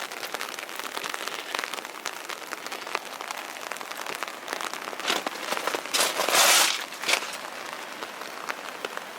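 Rain pattering close to the microphone as a dense run of small irregular ticks, with a louder hissing crunch about six seconds in.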